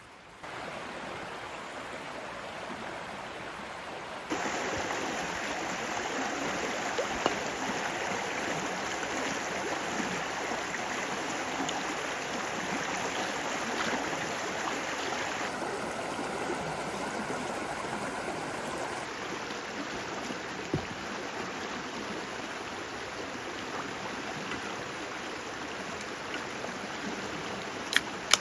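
Steady rushing water noise, jumping louder about four seconds in, with a single sharp click near the end.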